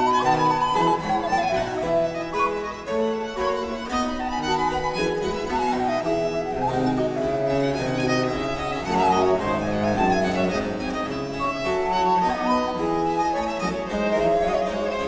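Baroque chamber ensemble of recorder, baroque violin, baroque cello and harpsichord playing live, with a busy texture of quick notes and ornaments over a steady bass line.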